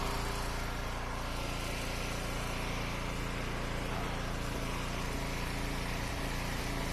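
Eastonmade Ultra wood splitter's gas engine running steadily at an even idle, left running to burn off the fuel in its tank.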